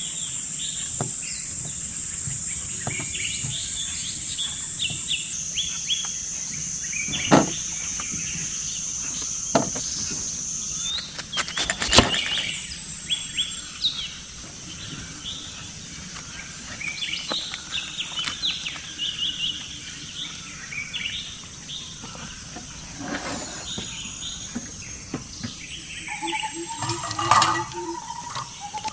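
Forest birds chirping and calling over a steady high insect drone, which drops in pitch about five seconds in and fades out a few seconds later. A few sharp knocks stand out, the loudest about twelve seconds in.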